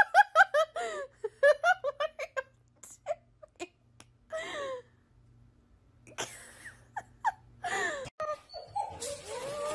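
A person laughing in a quick run of short bursts, then scattered smaller sounds. Near the end a cat starts a long, drawn-out yowl.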